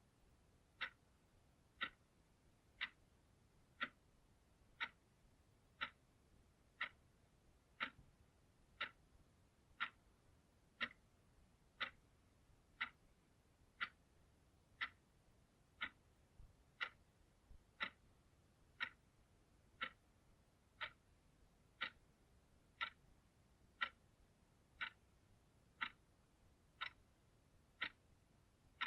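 Clock ticking steadily at one even tick a second, each tick a short, crisp click of the same strength.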